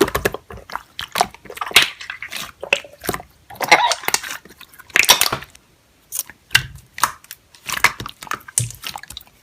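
Slime being pressed and worked by hand, making irregular crunchy clicks and squishes.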